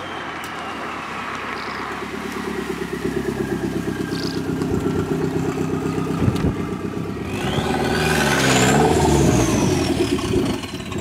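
Fiat 127's turbocharged 2.0 16-valve engine running as the car drives, with a fast pulsing beat through the first half. In the second half it gets louder and revs up and down, under a high whistle that rises and then falls.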